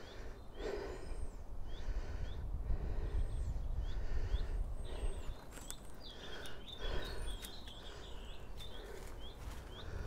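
Small birds chirping in short repeated calls over a low wind rumble on the microphone, with occasional steps through debris and undergrowth.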